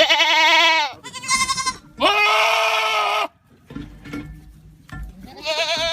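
Goats screaming: four loud, wavering bleats in quick succession. The third is the longest, over a second. After a quieter pause, the last call comes near the end.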